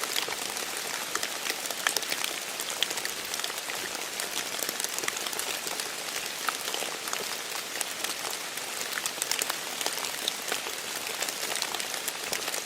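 Light rain with many separate drops falling from trees and pattering into puddles, a steady hiss dotted with sharp drips.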